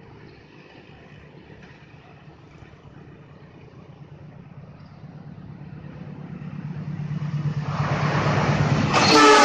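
Indonesian diesel-electric locomotive hauling a passenger train at speed, its engine and wheels on the rails a low rumble that grows steadily louder as it comes closer. Just before the end, a multi-note horn starts to sound.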